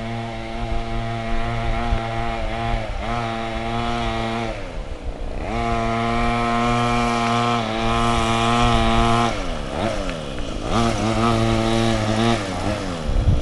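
Mini quad bike's small engine running under a rider's throttle, its pitch rising and falling several times. It drops away around four seconds in and again near ten seconds, climbs back each time, and holds high between.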